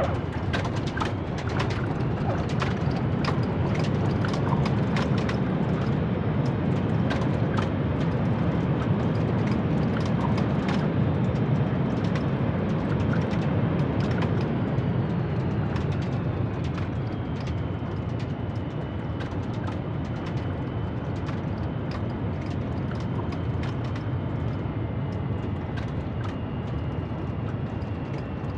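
Boeing 737 MAX 8 on its landing rollout: its CFM LEAP-1B engines run with a loud roar and rattling knocks through the first half. The roar then eases as the aircraft slows, leaving a high engine whine that slowly falls in pitch.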